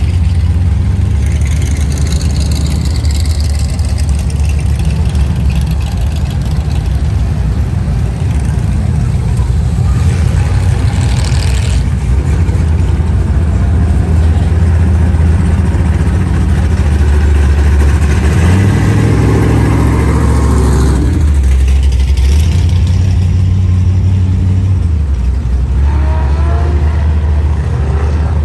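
Car engines rumbling at low speed, with a rise in revs about two-thirds of the way through as cars cruise past.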